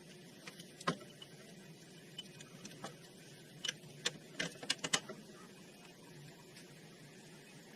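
Tools and parts being handled during repair work: a few sharp clicks and clinks, most of them in a quick cluster about four to five seconds in, over a low steady hum.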